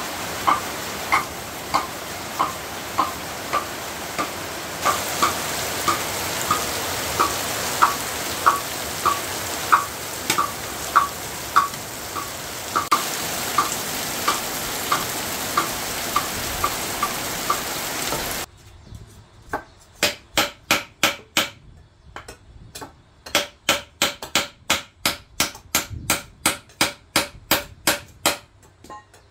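Food sizzling in a hot pan while it is stirred, with a metal utensil tapping the pan about every half second. The sizzle stops abruptly and is followed by two fast runs of sharp knocks, about three a second.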